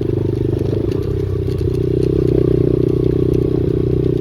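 Pit bike's small single-cylinder engine running steadily under a rider, its note swelling slightly about two seconds in.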